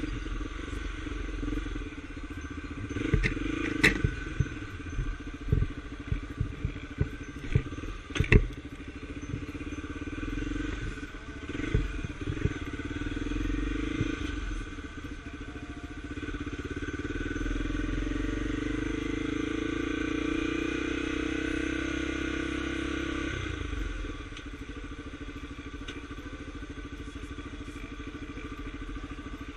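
A Scrambler Tornado motorcycle's engine running steadily. Sharp knocks and clatter are scattered through the first twelve seconds. About three-quarters of the way through, the sound drops suddenly and settles at a lower, steady level.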